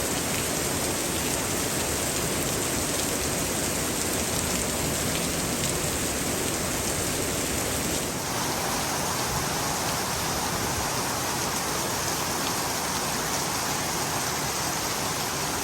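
Heavy rain pouring down with rushing runoff water, a steady hiss; about halfway through it shifts abruptly to a fuller rush of water.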